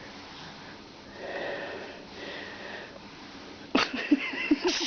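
Kitten sniffing and breathing softly, then a sharp click and a quick run of short sounds with a louder hiss-like burst near the end.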